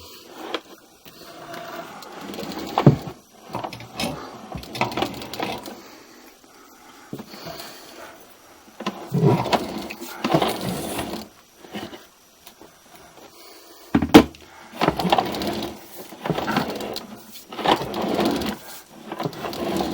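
Sewer inspection camera's push cable being fed into a mainline clean-out, rattling and scraping against the pipe in uneven bursts, with a sharp knock about 3 seconds in and another about 14 seconds in.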